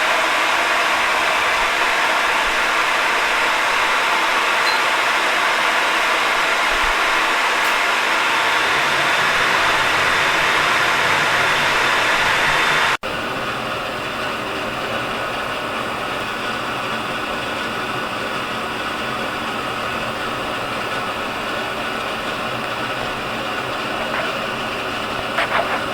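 Steady whirring of an electrical appliance's motor and fan. It cuts off abruptly about halfway through and is replaced by a second, quieter steady whirring with a faint hum, and there are a couple of brief clicks near the end.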